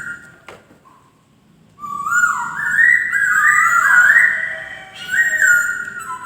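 Poksay (laughingthrush) singing: loud, clear whistled phrases of gliding notes that step up and down. After a brief pause near the start, broken by a single soft click, the song resumes as a continuous run of rising and falling whistles.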